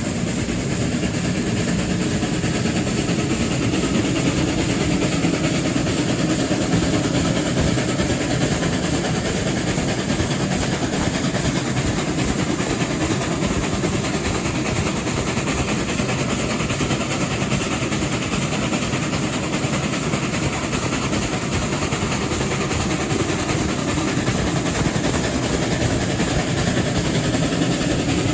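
Passenger train hauled by steam locomotive 3801, heard from on board while running steadily: an even, unbroken noise of wheels on rails and the moving train.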